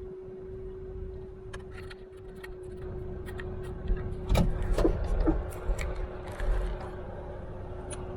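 Steady hum inside a pickup truck cab, with a run of scattered clicks, knocks and small rattles that grows busier and louder from about four seconds in.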